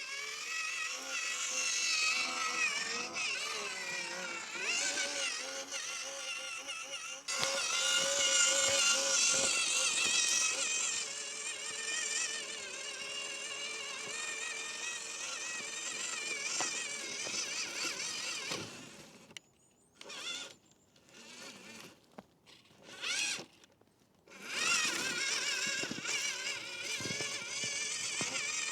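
Small electric RC crawler's motor and gearbox whining, the pitch rising and falling with the throttle. Near the end it stops, gives a few short blips, then runs again.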